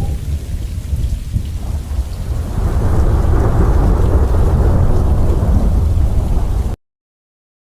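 Thunder rumbling low over steady rain, swelling louder about two and a half seconds in, then cutting off suddenly near the end.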